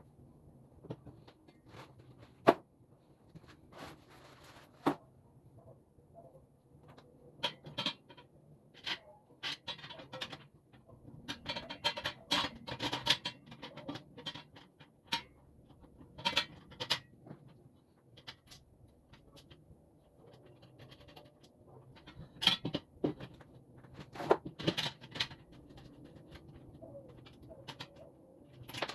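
Irregular clicks, knocks and scraping of work-table parts and hardware being handled during assembly. There are sharp single knocks about two and a half seconds in and again near twenty-two seconds, and denser rustling and scraping in the middle.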